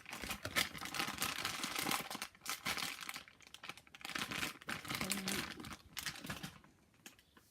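Crinkling plastic wrapping being handled, a dense run of crackles that stops about six and a half seconds in.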